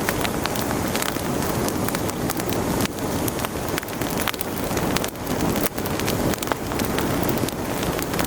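Wood fire burning in a fireplace: a steady rushing hiss with frequent small, sharp crackles and pops.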